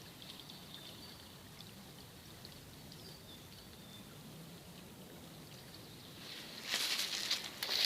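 A small spring brook trickling faintly as a steady soft hiss with tiny high ticks. Near the end, a louder, rougher noise with sharp clicks cuts in.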